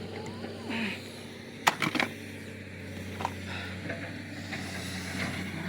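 A quick cluster of three or four sharp knocks a little under two seconds in, over a steady low hum.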